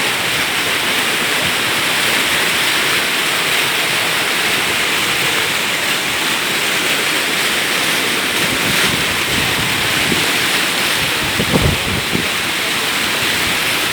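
Floodwater rushing in a loud, steady, unbroken wash of water noise, with a couple of brief low bumps about three-quarters of the way through.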